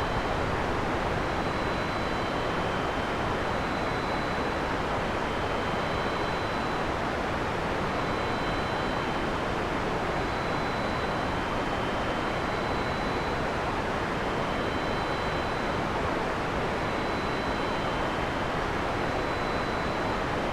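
Heavy rain falling steadily, a dense even hiss with no thunder claps. Faint thin high tones come and go every second or two above it.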